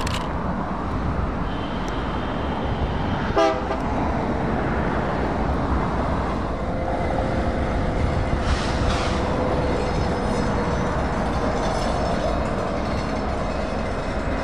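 Diesel freight locomotives running with a steady low rumble as the train nears, and a horn sounded faintly in the middle.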